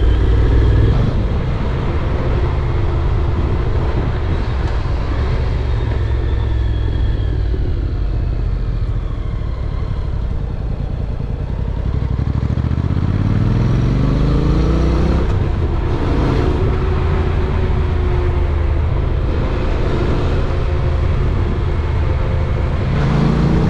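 Honda NC750X parallel-twin motorcycle engine running on the move, with a low rush of wind and road noise. About halfway through, the engine revs up in a rising sweep for a few seconds, then drops back at a gear change, and it starts rising again near the end.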